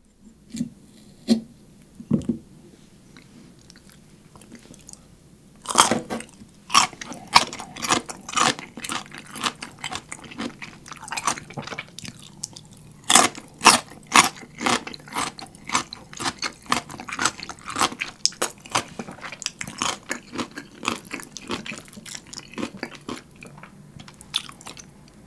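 Crisp dongchimi radish (radish pickled in water kimchi) bitten and chewed close to the microphone: a sharp crunch about six seconds in, then a long run of crisp, wet crunching chews. A few light clicks come in the first two seconds.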